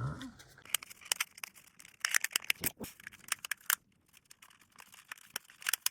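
Irregular clicks and scrapes of plastic being handled as an HO-scale model locomotive's body shell is worked off its frame, with a short lull partway through.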